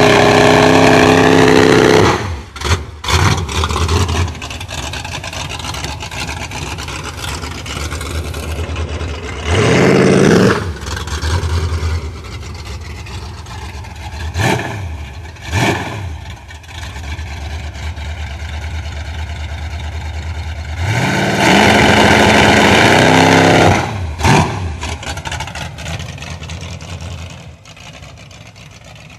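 Mustang II drag car's 302 V8, bored .060 over, revved hard several times. There are long rising revs at the start and a little past twenty seconds, a shorter one about ten seconds in, and quick throttle blips between. The engine runs steadily in the gaps and settles quieter near the end; it is very loud up close.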